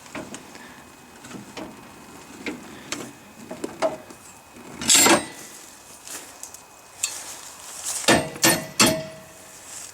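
Steel tie-down chain and chain binder clinking and clanking as a chain is secured to a tractor on a trailer. Scattered light clinks, one loud clank about five seconds in, and three quick ringing metal clanks near the end.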